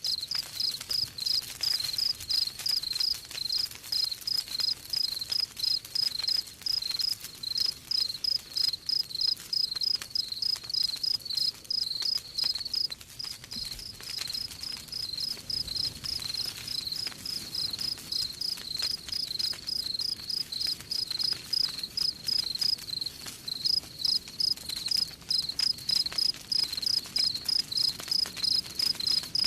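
Crickets chirping in a steady, fast, even series of high-pitched chirps, a little softer for a moment past the middle. Faint crackling from a wood campfire lies underneath.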